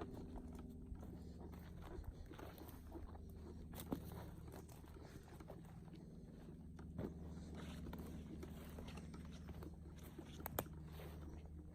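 Footsteps on the forest floor, with scattered short clicks and two sharper snaps about four seconds in and near the end, over a faint steady low hum.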